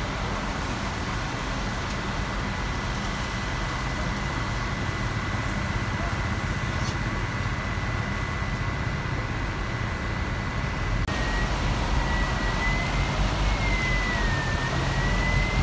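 City tour bus running through traffic: a steady engine and road rumble with a thin high whine over it. About eleven seconds in the sound changes abruptly, getting a little louder, and the whine wavers in pitch.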